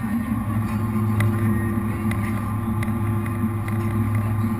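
Jet boat's V8 engines running steadily at low speed, a constant low drone.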